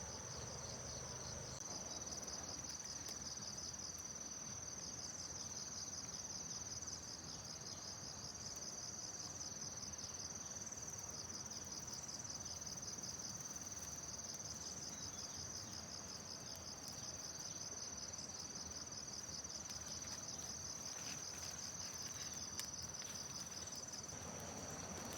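Insects trilling: a steady high-pitched chirring with a fast pulsing beneath it, unchanged throughout.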